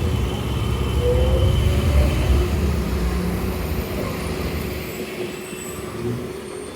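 Road traffic and wind rumble heard while riding an electric scooter: a loud low rumble that eases off about two-thirds of the way through, with a faint rising tone about a second in.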